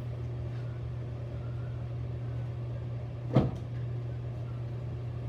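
A steady low hum, with one sharp knock about three and a half seconds in.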